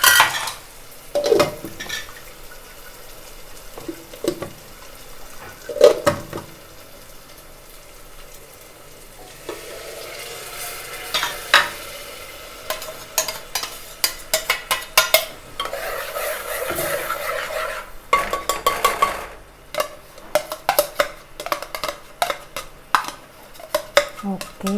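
A spoon stirring and scraping curry paste in a metal pressure cooker pot, with sharp knocks of the spoon on the metal. From about ten seconds in the paste sizzles steadily, and the clinks and scrapes come thick and fast toward the end.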